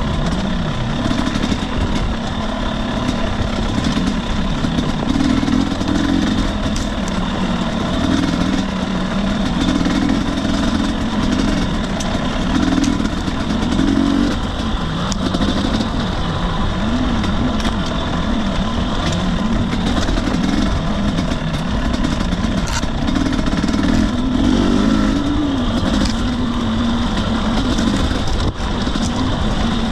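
2021 Husqvarna TE250i fuel-injected 250 cc two-stroke dirt bike engine running on a trail ride, its revs rising and falling constantly as the throttle is worked, with scattered short clicks and knocks.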